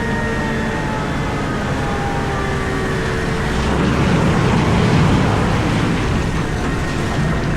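Komatsu PC4000 hydraulic mining excavator running, heard from inside its cab: a steady low rumble with faint whines that slide slowly down in pitch, swelling louder and rougher about four to five seconds in.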